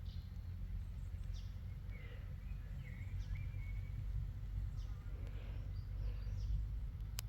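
Steady low rumble of wind on the microphone in open countryside, with faint, scattered short bird chirps above it.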